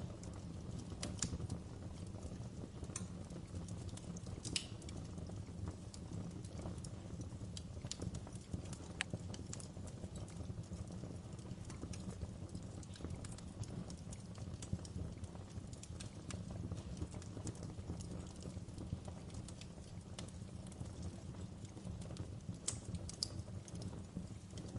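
Fireplace fire crackling, with irregular sharp pops and snaps over a low, even rumble of the burning.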